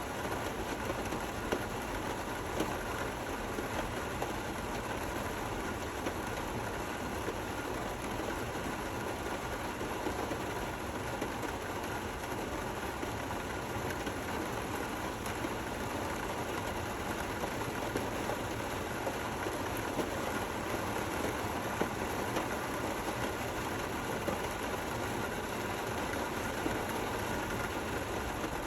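Steady rain falling: an even, continuous hiss with the odd sharper drop standing out now and then.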